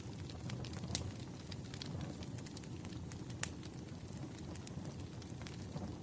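Wood fire burning with a low, steady rumble and irregular sharp crackles and pops, one louder pop about midway.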